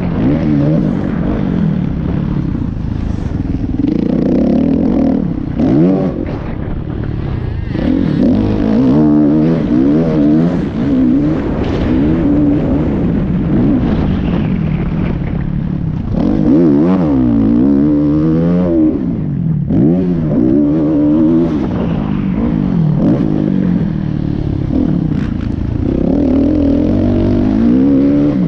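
Motocross dirt bike engines running hard and revving, the pitch rising and falling over and over with the throttle.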